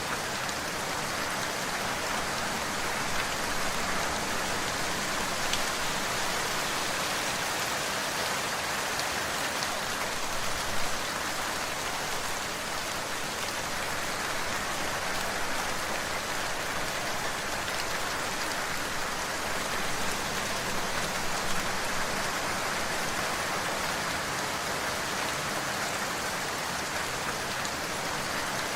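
Steady rain falling, an even hiss of many drops with a few slightly louder drop hits here and there.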